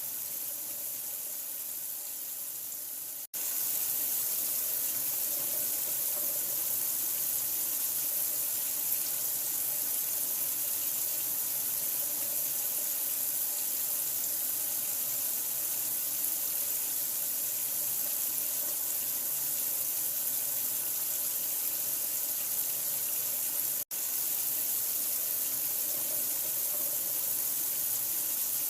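Water running steadily with an even rushing hiss, played as white noise to help a newborn sleep. It cuts out for an instant twice, about three seconds in and near 24 seconds.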